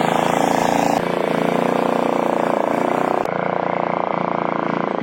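Tractor engine running steadily with a rapid even firing pulse, broken by two abrupt cuts in the sound.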